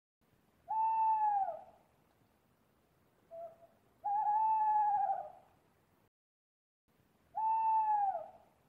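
An owl hooting: three long, clear hoots about three seconds apart, each dropping in pitch at its end, with a short, fainter note between the first two.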